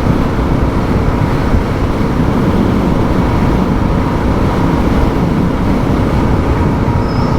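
Suzuki DR650's single-cylinder engine running at a steady cruise, mixed with road and wind rush.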